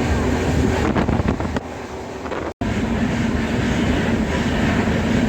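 Passenger train running along the track, a steady noise of the moving coach with a low hum. The sound cuts out completely for a split second about halfway through, then resumes.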